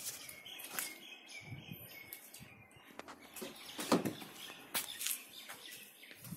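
Birds chirping outdoors, with occasional knocks and thumps, the loudest just before four seconds in.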